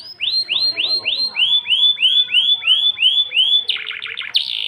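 Domestic canary singing: a run of clear, evenly repeated swooping notes, about four a second, that breaks near the end into a fast buzzy trill and a rattling roll.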